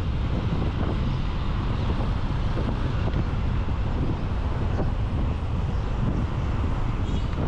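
Wind rumbling steadily on a GoPro microphone on a moving motorcycle, mixed with engine and road noise.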